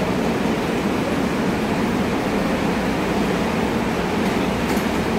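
Steady rumble and hiss of an AREX airport railroad train standing at the platform with its doors open.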